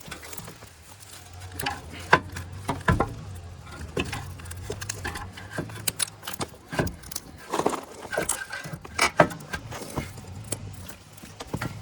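Irregular metallic clinks and knocks as a new A/C compressor is handled and worked into place in a car's engine bay, a few of them louder, over a steady low hum.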